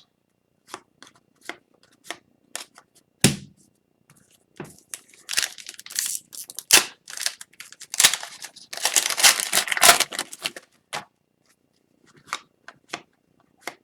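Upper Deck hockey card packs and cards being handled: scattered light clicks and rustles as cards are slid and flipped, with two longer stretches of crinkly wrapper rustling, about five seconds in and again about nine seconds in.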